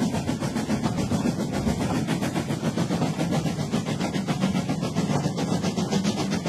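A train running along the track with a fast, even clicking of wheels over rail joints over a steady running hum.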